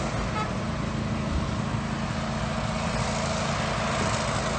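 Steady vehicle engine and road noise, an even low hum with no impacts.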